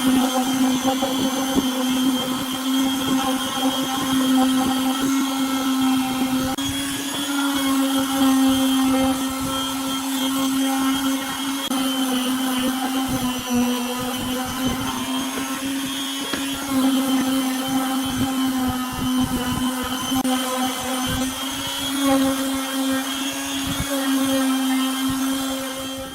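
An electric power tool's motor running steadily with a steady hum, its pitch sagging briefly now and then as if under load.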